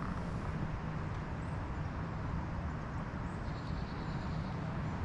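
Strong wind buffeting the microphone outdoors: a steady low rumble with a hiss above it, holding even throughout.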